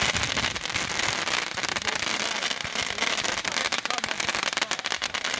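Fireworks crackling densely and without a break: a rapid, continuous spray of small pops with no single large bang.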